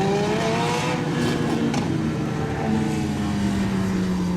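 Several Legends race cars, each with a Yamaha motorcycle engine, running at speed on the oval. Their engine note rises for about the first second, then sinks slowly.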